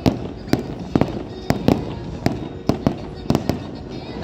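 Fireworks show going off in quick, irregular succession: about ten sharp bangs in four seconds, with echoing rumble between them.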